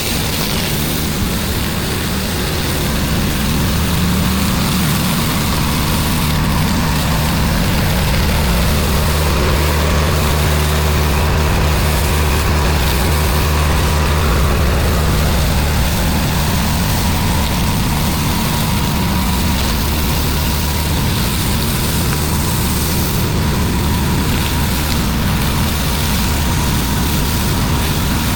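Pressure washer engine running steadily under load, with a continuous hiss of high-pressure water spray.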